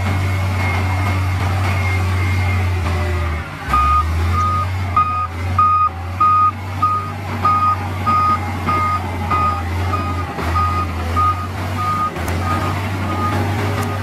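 A heavy diesel machine's engine runs steadily. About four seconds in, a reversing alarm starts beeping, about two beeps a second, and keeps on nearly to the end.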